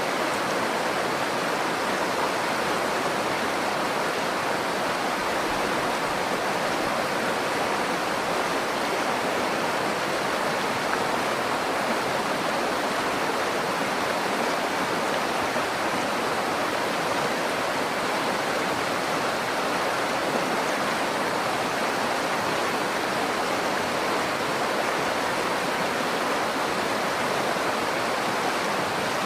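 River water rushing over rocks in a steady, even flow, with no let-up or change.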